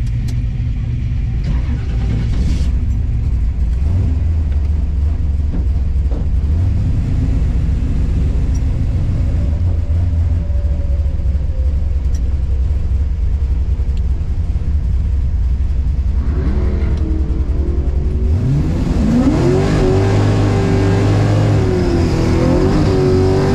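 1969 Camaro's naturally aspirated big-block V8, heard from inside the cabin, idling with a steady low rumble, then revving up about 18 seconds in and holding at high revs to the end.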